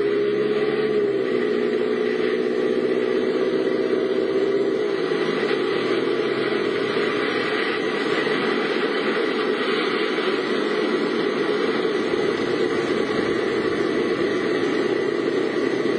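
A car engine running steadily; its pitch steps down slightly about a second in and again about five seconds in. A rushing noise swells in the middle.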